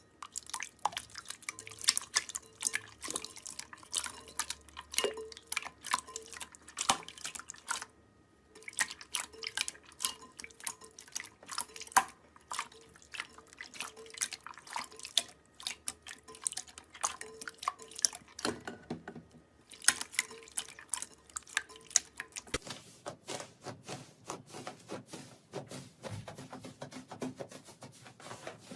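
Slime being squeezed and worked by hand: a rapid, dense stream of small wet pops and clicks, with two brief pauses about a third and two-thirds of the way through.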